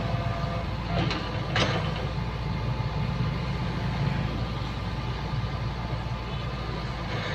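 Hydraulic excavator's diesel engine running steadily, with two short clanks about a second in.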